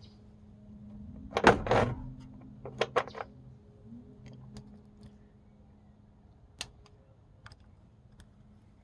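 Metal hand tools knocking and clinking on engine parts: a loud clatter about one and a half seconds in, then a handful of single sharp clicks, over a faint steady hum.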